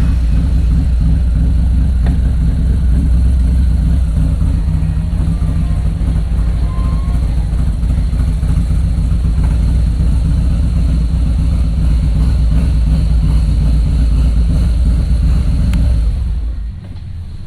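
A vehicle engine running steadily on the move, a loud low rumble that drops away about sixteen seconds in.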